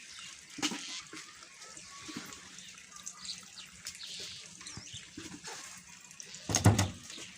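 Shallow muddy water splashing and trickling as hands work through it while fishing by hand, with small irregular splashes and one louder splash about six and a half seconds in.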